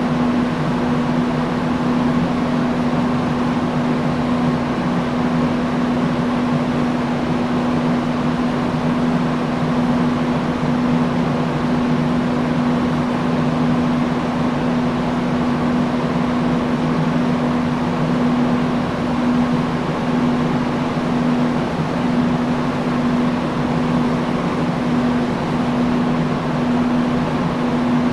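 Industrial fan running steadily: an even rush of moving air over a constant low hum.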